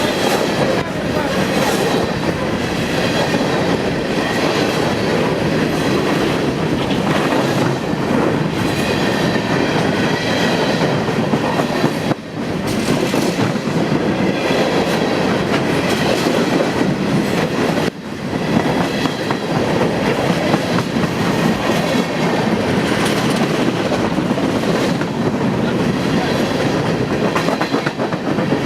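A train rolling past close by: a steady, loud rumble of wheels on rail, with two brief dips in level partway through.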